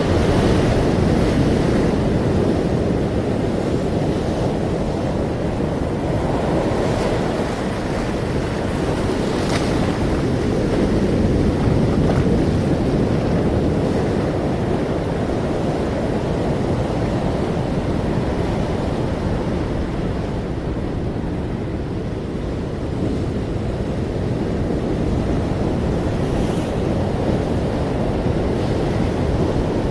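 Ocean surf: a continuous rush of breaking waves that swells and eases slowly, with a brief brighter hiss about nine seconds in.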